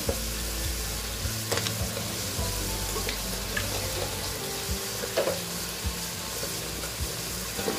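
Tomatoes, ginger-garlic paste and whole spices frying in oil in a cooking pot: a steady sizzle with a few light clicks scattered through it.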